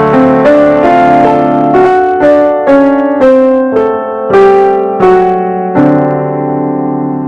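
Solo piano music playing a slow melody in struck notes and chords, each ringing and fading, with a long held chord near the end.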